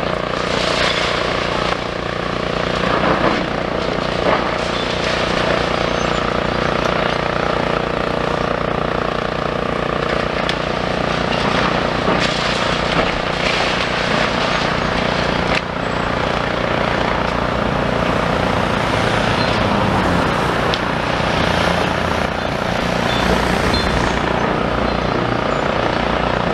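Demolition excavator's diesel engine running steadily, with a few sharp crunches and knocks as it breaks and pulls at concrete and brickwork.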